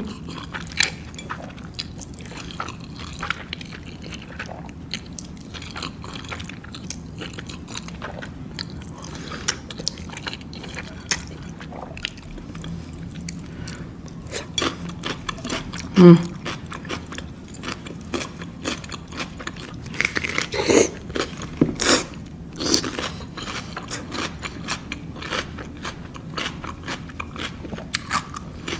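Close-miked eating: wet chewing with crunchy bites and many small clicks, louder crunching around twenty seconds in. A brief hummed 'mm' about sixteen seconds in.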